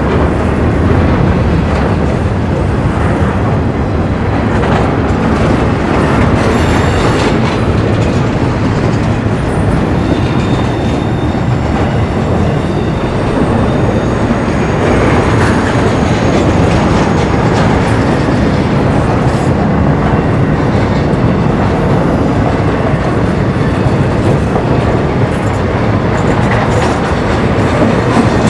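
Railroad cars of a passing train rolling by close up, loud and steady, wheels clacking over the rail joints. A thin metallic wheel squeal rises now and then around the middle.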